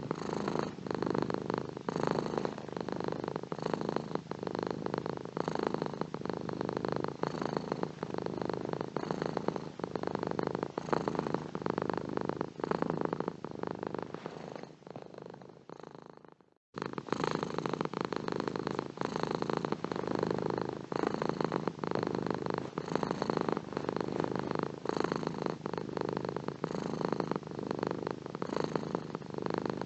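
Domestic cat purring steadily, a continuous pulsing rumble. About halfway through it fades down, drops out for a moment and then starts again abruptly.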